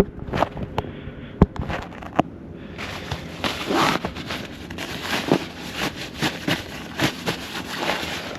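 A sleeping bag being handled, rustling and crackling. The first couple of seconds are a string of sharp crackles, then denser rustling with repeated swishes.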